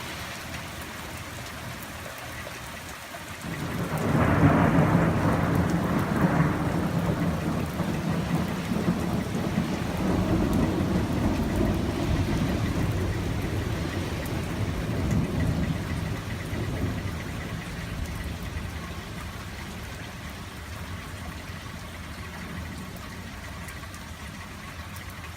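A long peal of thunder breaks in about four seconds in, loudest at first and then rolling and slowly fading over the next dozen seconds, over steady falling rain.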